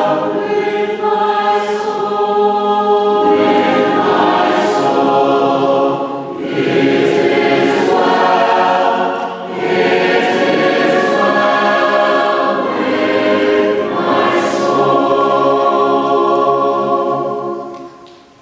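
High school chamber choir singing a sacred song in sustained chords; the song ends near the end and the sound dies away.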